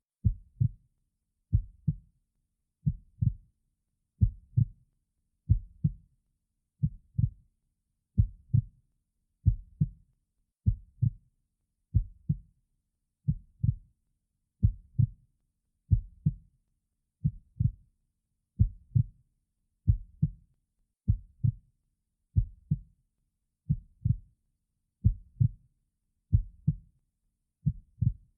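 Heartbeat: steady paired lub-dub thumps about every 1.3 seconds, with quiet gaps between.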